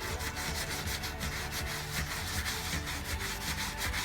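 Scrubbing rust off a wheel rim by hand with a brush and abrasive pad: quick, even back-and-forth rubbing strokes.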